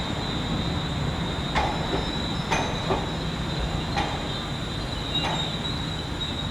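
London Northwestern Railway Class 350 Desiro electric multiple unit moving slowly along the platform, with a steady high-pitched wheel squeal over a low rumble and a handful of irregular clunks as its wheels pass over the track.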